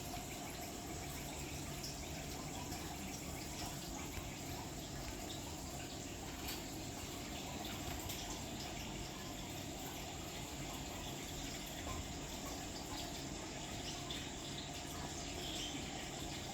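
Rainwater trickling and dripping steadily, with scattered small drips.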